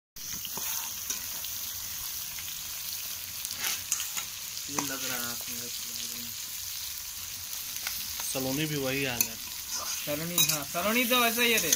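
Chopped onions sizzling as they fry in oil in a metal wok, with a metal spatula scraping and stirring them. A person's voice comes in briefly a few times in the second half.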